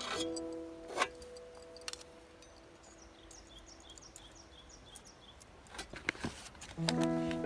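Quiet outdoor ambience with a bird giving a quick run of about eight short, high chirps, each falling in pitch, followed by a few sharp clicks. Background music fades out early and returns near the end.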